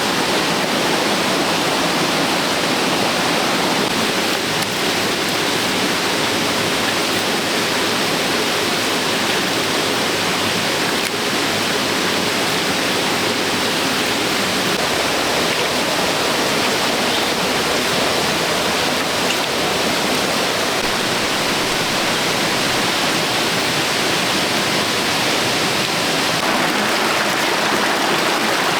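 Steady, even rushing of running water, with no breaks or strikes.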